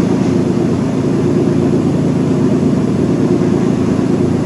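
A loud, steady low hum with several held tones, unchanging throughout.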